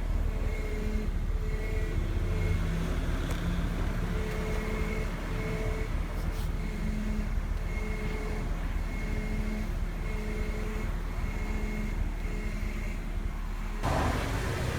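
Nissan Teana's engine running steadily, with faint whining tones that come and go. The sound changes abruptly to a brighter hiss near the end.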